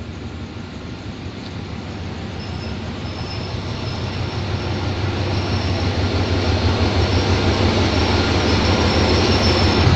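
Diesel-hauled passenger train pulling into a station: the locomotive's engine rumble and the rolling wheels grow steadily louder as it draws alongside. A thin high squeal of wheels or brakes runs over it from a few seconds in.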